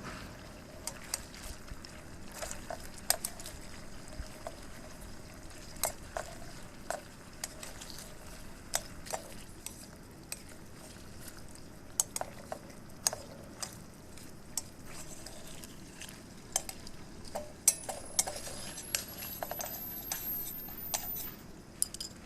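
Metal utensil clinking and scraping against a cast-iron skillet: irregular sharp clinks, a few of them louder, over a steady low background.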